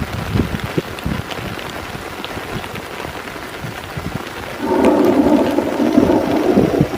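Heavy rain falling steadily with scattered sharp drops, then a low rumble of thunder rolls in about two-thirds of the way through and becomes the loudest sound.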